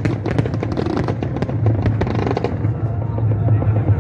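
Fireworks crackling in quick sharp pops over the first two and a half seconds, thinning out, over a steady low rumble.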